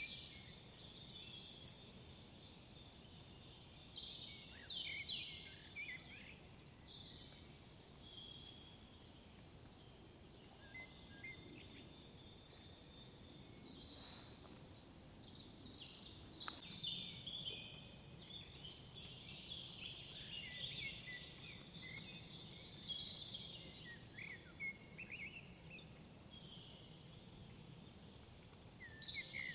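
Several songbirds singing in woodland, many short overlapping phrases, with a very high, thin rapid trill coming back four times.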